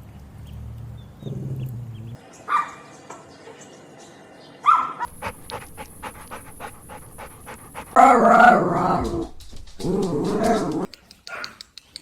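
Small-breed puppy vocalising: two short high yips in the first few seconds, then two louder, longer cries of about a second each near the end.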